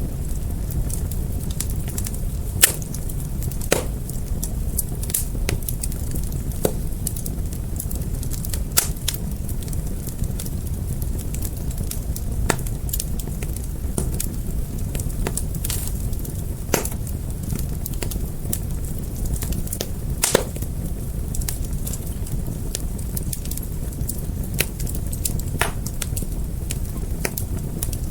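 Wood fire burning with a steady low roar of flames and irregular sharp crackles and pops from the burning wood.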